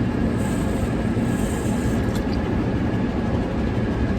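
Steady outdoor noise, heaviest in the low range, with no distinct events.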